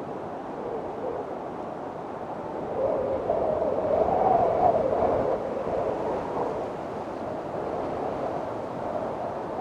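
Strong wind of a windstorm blowing steadily, with a gust that swells higher and louder about three seconds in and then eases off.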